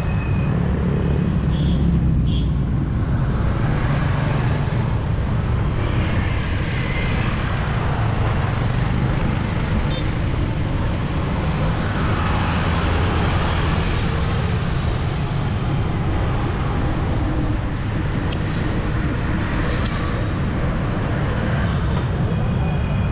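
Busy city street traffic: engines of passing vehicles running steadily, over a constant low rumble.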